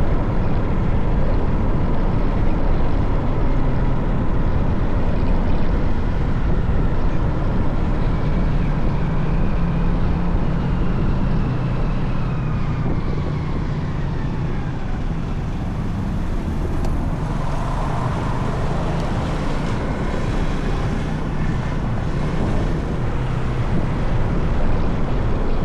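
Motorcycle under way, its engine running steadily beneath a thick rush of wind on the microphone; a whine falls slowly in pitch about halfway through.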